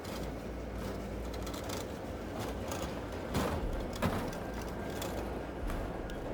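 Layered city ambience: a steady hiss over a low rumble, scattered with light clicks, and two louder knocks a little past the middle.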